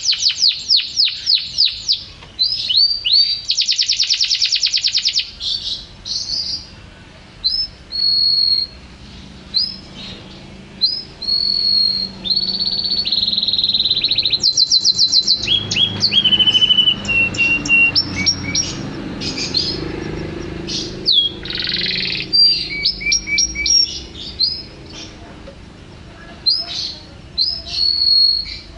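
Songbird singing a loud, varied song of fast trills, short whistled notes and sliding phrases, with brief pauses between phrases.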